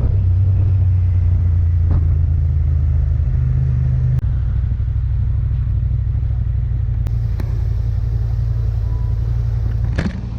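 Yamaha XSR700's parallel-twin engine running steadily, its sound shifting lower about four seconds in, with a sharp click near the end.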